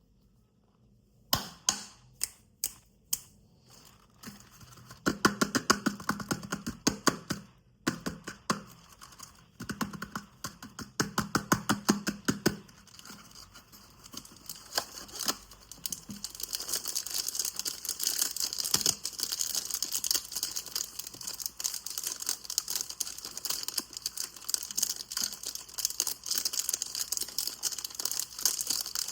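Dry soap crunching and crackling as it is worked. It starts with a handful of sharp separate snaps, moves to two runs of rapid crackling strokes, and from about halfway through becomes a dense, continuous crackle.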